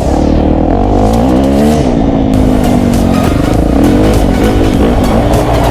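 Off-road vehicle engine revving on a muddy trail, its pitch rising and falling repeatedly as the throttle is worked.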